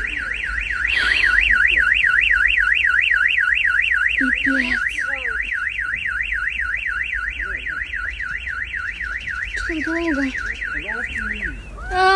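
Car alarm sounding, its tone warbling rapidly up and down about four times a second, then cutting off near the end. Set off by the earthquake's shaking.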